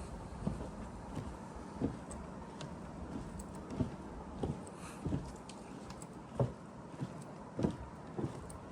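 Footsteps at an even walking pace, about three steps every two seconds, each a short dull thud.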